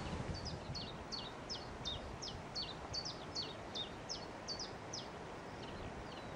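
A small songbird singing a quick, even run of about a dozen short, high notes, each sliding downward, roughly two or three a second, stopping about five seconds in. Light wind noise is heard underneath.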